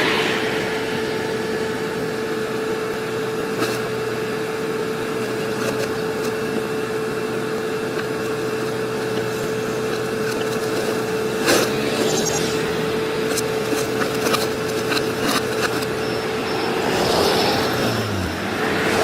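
Construction machine's diesel engine running steadily with a constant whine, a sharp knock about two-thirds of the way through and a swell near the end.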